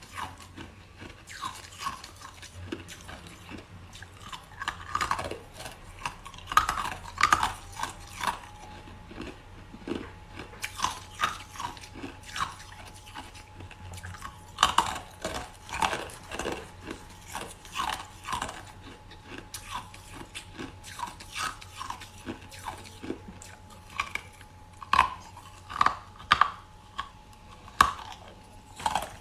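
Ice being crunched into pieces: crisp, brittle cracks at irregular intervals, sometimes several in quick succession.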